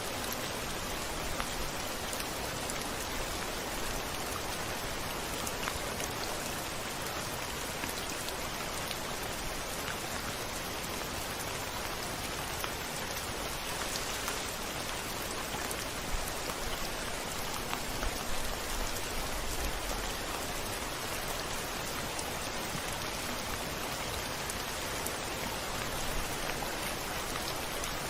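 Steady heavy rain pattering on a window, a dense even hiss of falling drops with scattered individual taps, and a faint low rumble a little past the middle.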